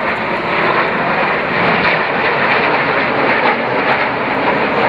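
BAE Hawk jet trainers flying in display, a steady, loud jet engine noise without breaks.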